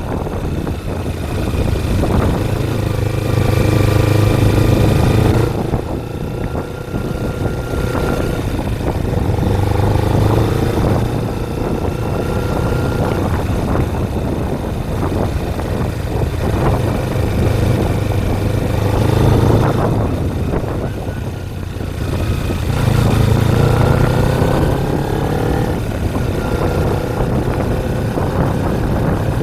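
Kawasaki Ninja 250 motorcycle engine under way, revving up and easing off in about four surges as it accelerates and backs off, with wind rushing over the microphone.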